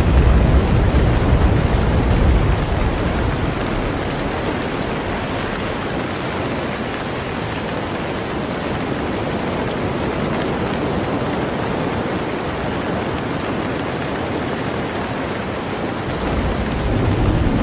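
Heavy rain falling steadily on a boat, an even hiss of many drops. A deep low rumble sits under it, strong at the start and fading within about three seconds, then rising again near the end.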